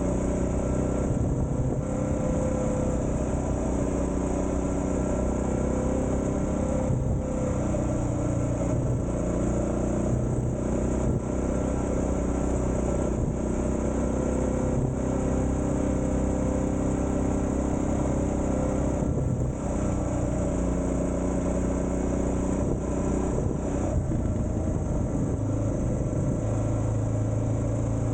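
Suzuki DR650's single-cylinder four-stroke engine running while riding, its note rising and falling with the throttle, with a few brief drops in the upper sound along the way.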